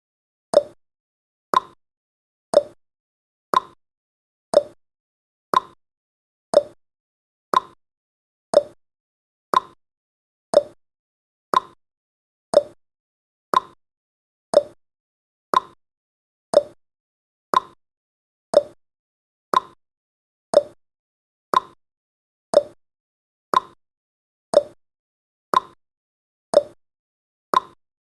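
Clock tick-tock sound effect marking the seconds of a countdown timer: one short, sharp tick each second, alternating between a higher and a lower tick.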